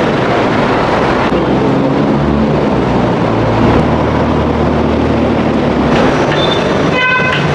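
A train running, heard as a loud, steady rumble and rush of noise with a low hum in the middle, and a brief high ringing tone near the end.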